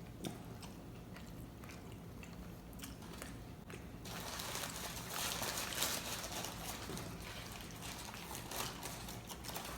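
A person chewing and crunching a taco, with scattered small crunches and then a louder, denser stretch of crunching in the middle.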